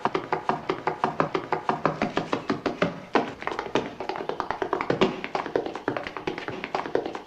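Rapid, uneven tapping clicks, about ten a second, over faint steady tones.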